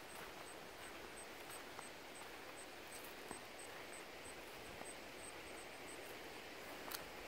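Quiet outdoor lakeside ambience with a faint, very high chirp repeating about three times a second, stopping about six seconds in. There is a single sharp click near the end.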